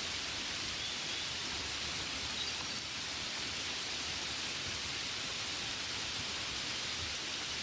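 Steady rain falling, an even hiss with no lulls, with a few faint high chirps over it.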